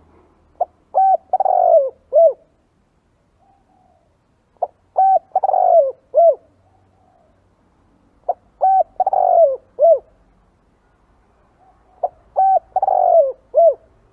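Spotted dove cooing: four phrases repeated about every four seconds, each a short note, a pair of coos, a longer falling coo and a short final coo.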